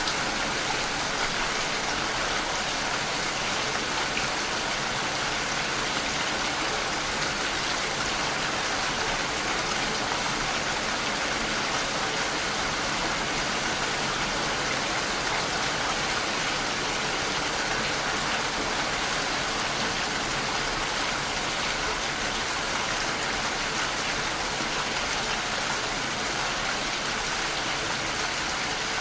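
Steady rushing water noise, an even hiss that does not break or change.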